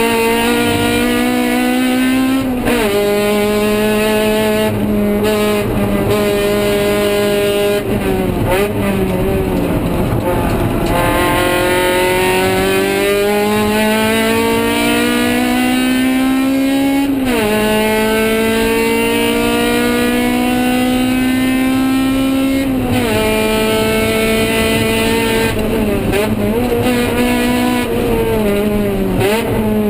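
Honda K20Z1 2.0-litre inline-four in a 1999 Civic sedan, heard from inside the cabin at full throttle on track. The engine climbs in pitch through each gear and drops sharply at three upshifts, with longer stretches where the pitch falls in between.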